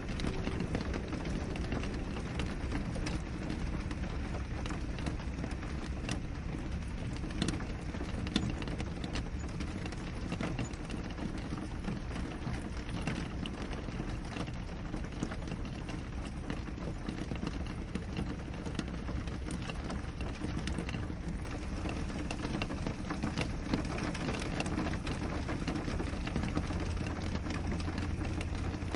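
Steady rain pattering on a window pane: a constant patter of many small drop ticks over a deep, even rumble, with a few sharper drop strikes standing out now and then.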